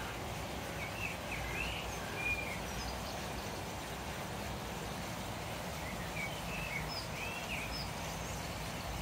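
Small birds chirping in two short flurries of quick calls, about a second in and again around six seconds in, over a steady low background hum.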